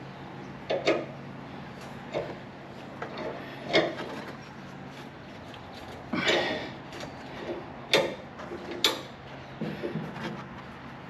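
Tools and parts handled during rear shock work: a handful of sharp knocks and clanks, with a longer scrape about six seconds in, over a steady low hum.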